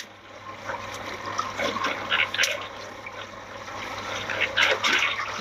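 Water splashing and trickling as a fishing net full of fish is hauled aboard, with irregular knocks and clatters, under a low steady hum.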